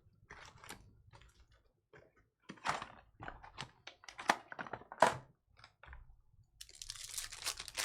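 Trading-card box and foil packs being handled and opened: scattered sharp clicks and crackles of cardboard and wrapper, then a denser crinkling of a pack wrapper being torn open near the end.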